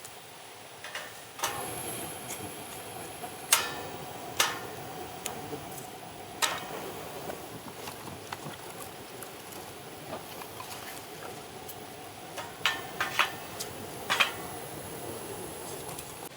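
A steady hiss that starts about a second and a half in, with several sharp knocks and clicks of hard objects over it, a few of them close together near the end.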